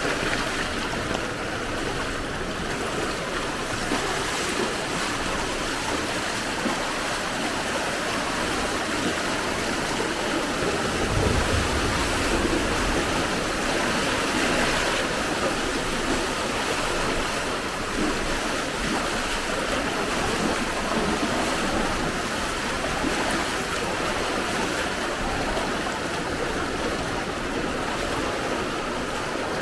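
Floodwater rushing down a flooded street, a steady noise of fast-flowing water. A low rumble joins it for a couple of seconds about eleven seconds in.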